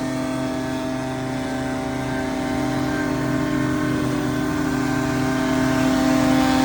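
Engine of a lawn-care machine running steadily, its pitch nearly constant, growing a little louder towards the end.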